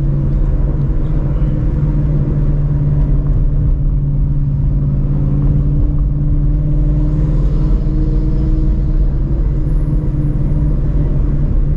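Straight-piped Shelby GT350's 5.2-litre flat-plane-crank V8, with long-tube headers, running at steady low revs: an even, deep, loud exhaust rumble with no revving.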